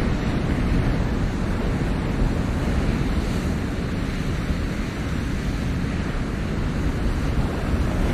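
Ocean surf washing on a shore, a steady rush of breaking waves with wind rumbling on the microphone.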